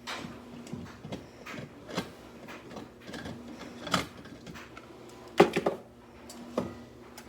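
Scattered clicks and knocks of things being handled and set down, the loudest a cluster a little past five seconds in, over a faint steady low hum.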